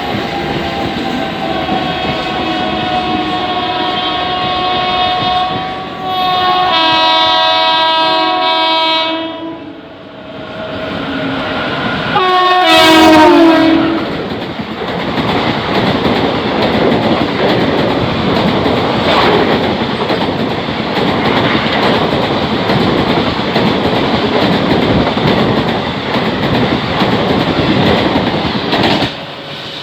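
Indian Railways WAP-4 class electric locomotive sounding its two-tone horn in repeated blasts while passing at speed; the pitch falls as it goes by, and the loudest blast comes a little before halfway. Then the coaches roll past with a steady rumble and clickety-clack of wheels on rail joints.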